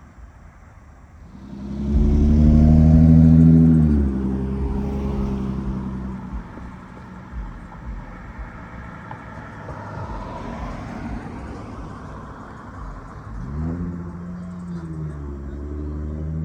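Motor vehicles passing on a road close by. One engine swells loud about two seconds in and drops in pitch as it goes past. Tyre and road noise follows, then a second vehicle's engine comes up near the end.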